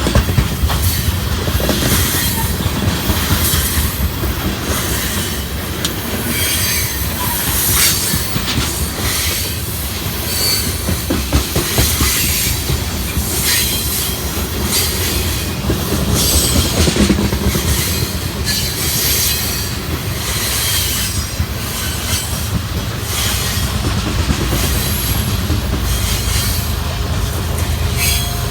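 Freight train of railroad tank cars rolling past at speed: a steady rumble of wheels on rail, with repeated clicking over the rail joints and brief high wheel squeals.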